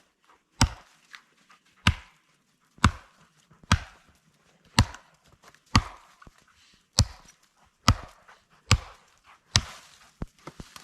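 Chopping: about ten sharp strikes, roughly one a second, steady in pace and loudness.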